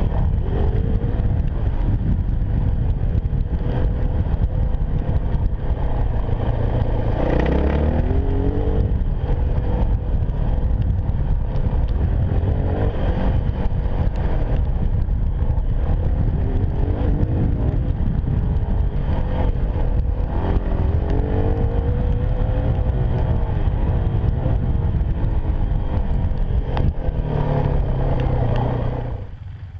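Enduro motorcycle engine running under way with a heavy, dense rumble, its pitch rising and falling with the throttle several times. The noise drops away sharply near the end.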